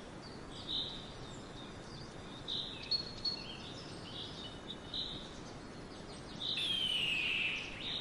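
Short, high bird chirps over steady outdoor background noise, then near the end one long, falling call of a red-shouldered hawk.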